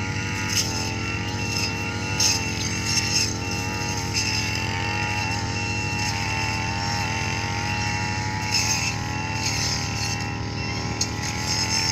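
Heavy machinery engine running steadily, with a high electronic beep repeating over it and a few short clatters.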